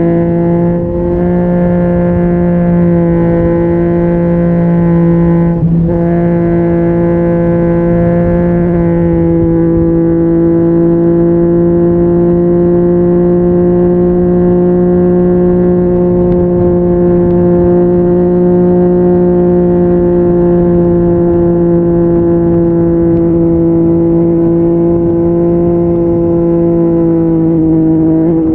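Yamaha MT-09's three-cylinder engine through an Akrapovic exhaust, running at steady revs as the bike cruises. The note holds nearly one pitch, with short breaks about a second in and again around six seconds.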